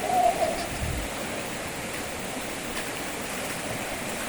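Waterfall rushing steadily. A short wavering tone sounds right at the start, and a low thud about a second in.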